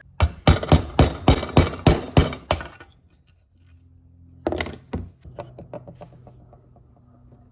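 Hammer blows on the old axe head, about three a second for the first two and a half seconds. Two more blows come about four and a half seconds in, followed by a short fading rattle.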